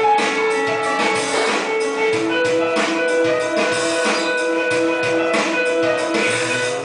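A band playing an instrumental passage, with guitar and drums over long held notes that change pitch every second or so.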